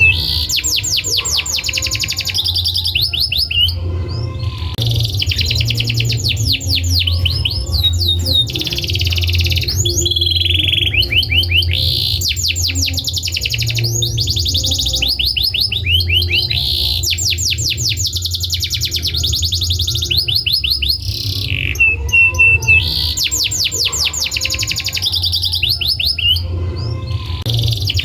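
Domestic canary singing: long phrases of fast trills and rapidly repeated notes with short breaks between them, over a low steady hum.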